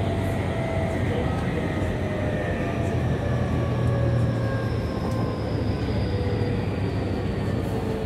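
Interior running noise of a Yokohama Minatomirai Railway Y500-series electric motor car: a steady rumble of wheels on rail under a whine from the traction motors. The whine falls slowly in pitch, as the train begins to slow on the approach to its next stop.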